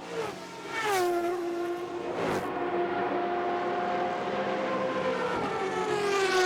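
Sports-prototype and GT race cars passing at speed on track. Their engine note drops sharply in pitch as a car goes by about a second in and again near the end, with a steady engine tone held in between.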